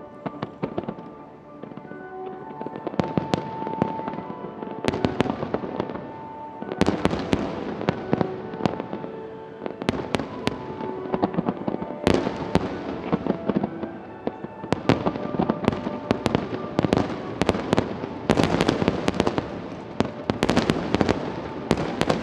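Fireworks bursting in rapid, overlapping volleys of sharp bangs over music, with dense salvos starting about three, seven, twelve and eighteen seconds in.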